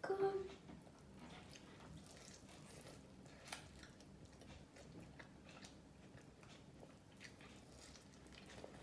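A person eating: faint bites and chewing with scattered mouth clicks, one sharper click about three and a half seconds in.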